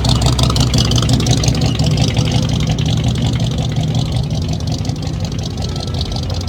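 A truck engine running steadily and loud, with a hiss above it.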